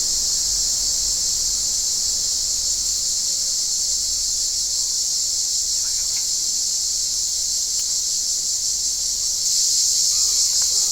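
Cicadas singing in a steady, unbroken high-pitched buzz, which grows louder near the end.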